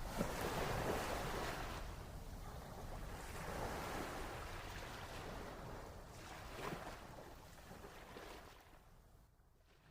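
Faint, even rushing noise that slowly dies away, fading out over the last second.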